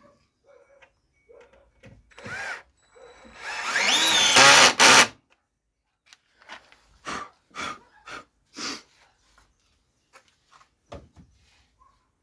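Electric drill run in short bursts, the longest spinning up with a rising whine about four seconds in. A string of short knocks follows, with a thump near the end.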